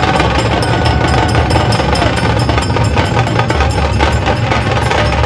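Dhol tasha ensemble drumming: a rapid, even stream of tasha strokes over heavy, pulsing dhol beats.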